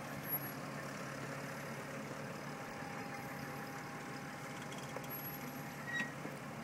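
Jeep XJ Cherokee engine running steadily at low revs as the vehicle crawls slowly over rough ground, with a sharp click about a third of a second in and another about six seconds in.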